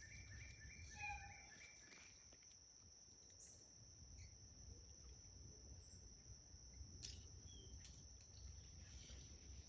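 Faint insect sounds: a steady high-pitched insect drone, with a rapidly pulsing insect trill that stops a little over two seconds in. A short chirp comes about a second in, and a faint click near the end.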